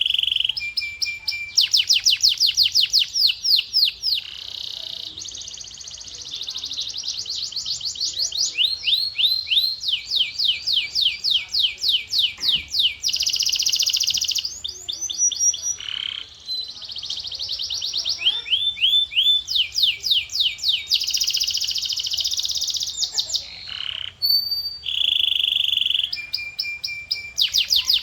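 Male domestic canary singing continuously: long rolls of rapid, repeated sweeping notes alternating with sustained buzzy trills and short steady whistled tones, all high-pitched.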